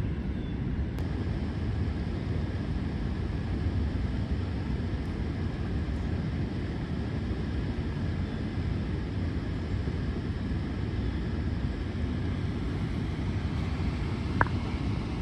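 Steady low rushing rumble of river water pouring over a dam, with one short click near the end.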